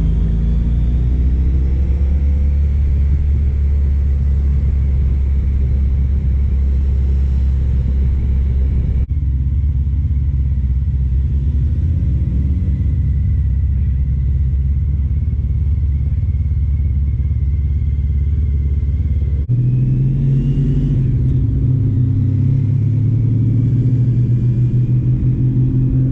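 Honda ST1300's V4 engine running at steady road speed, a low continuous drone with road and wind noise. The sound jumps abruptly twice, about a third and three-quarters of the way through, and the engine note is higher after the second jump.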